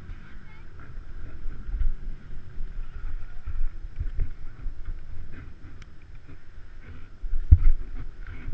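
Distant motocross motorcycle engines running as a steady drone, under wind buffeting the microphone in irregular low gusts. The strongest gust comes about seven seconds in.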